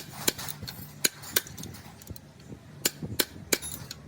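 A hammer striking metal: about eight sharp blows, several of them in quick pairs.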